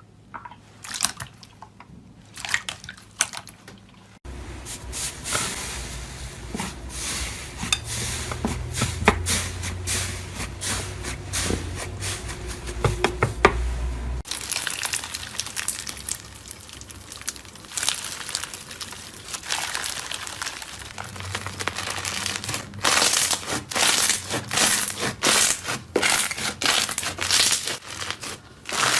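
Slime being squished and pressed by hand: wet squishing with dense crackling clicks. The texture changes abruptly about four seconds in and again halfway through, where separate clips are cut together.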